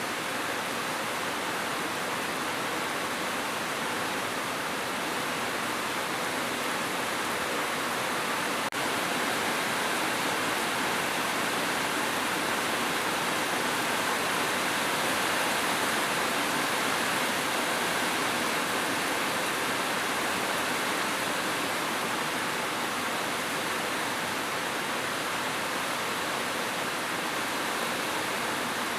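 Steady heavy rain, an even hiss with no separate drops standing out. A faint click about nine seconds in.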